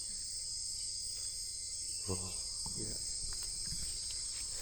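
Dense, steady high-pitched chorus of rainforest insects, crickets and katydids, shrilling without a break.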